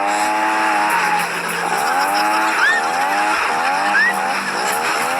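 A motor vehicle engine revving, its pitch dipping and climbing again roughly once a second, with a few short high squeaks around the middle and near the end.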